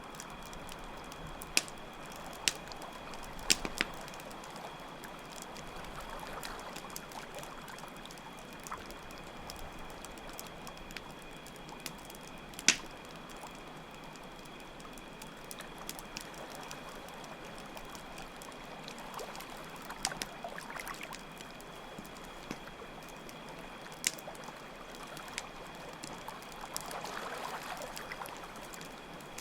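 Campfire crackling, with sharp pops scattered irregularly and one loudest pop about halfway through, over a steady trickle of running water and a constant high chirping of crickets.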